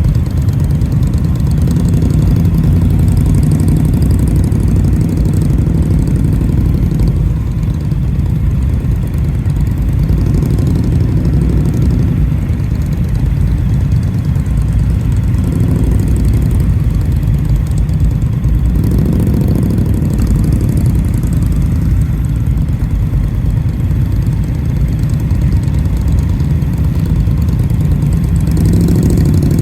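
Indian motorcycle V-twin engine running steadily under way, swelling and easing off a few times with the throttle.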